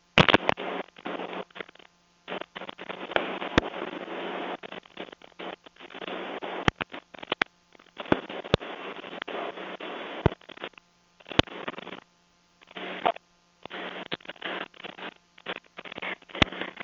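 Rustling and handling noise on a body-worn police camera microphone, with scattered sharp clicks and a faint steady hum; the noise keeps cutting out to silence for moments at a time.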